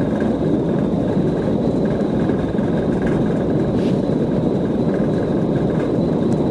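Steady, loud vehicle running noise from a police unit in pursuit: a constant rumble with a faint steady whine above it.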